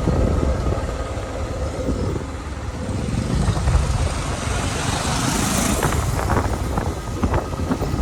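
Motorcycle running on a ride along a road: a steady low rumble of engine and road noise, with a few short knocks near the end.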